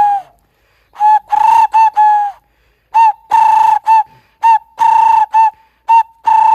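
A boy whistling in imitation of bird calls: groups of short, clipped notes and longer held ones, all on the same steady pitch, repeated with brief pauses between the groups.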